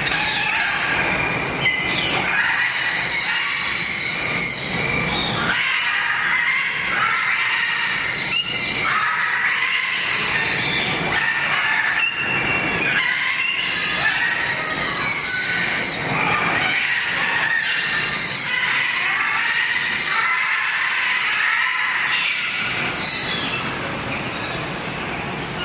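A dense flock of birds chattering and squawking together, many high, shrill calls overlapping without a break.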